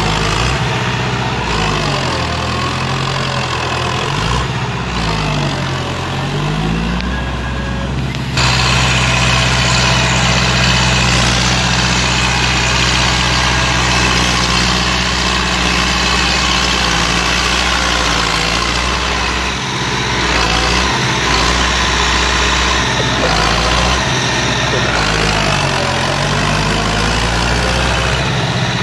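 Heavy vehicle engine running loudly, its pitch dipping and rising a few seconds in and again near the end. The sound changes abruptly about eight seconds in.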